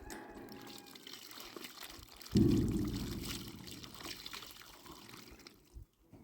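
Liquid being poured, with a sudden louder gush about two seconds in that tapers off.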